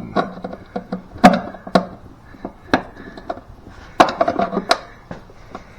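Irregular clicks, knocks and rustling from hands working a shifter cable and a screwdriver through a hole in a car's floor under the carpet, with about five sharper knocks.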